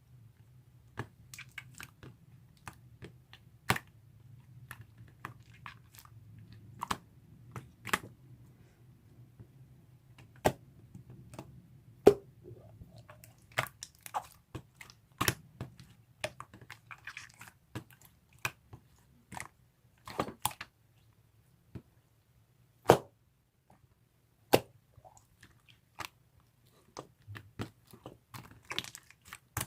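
Pink slime being pressed and squeezed by hand, giving irregular sharp clicks and pops at uneven intervals, a few much louder than the rest. A faint low hum sits underneath for roughly the first half.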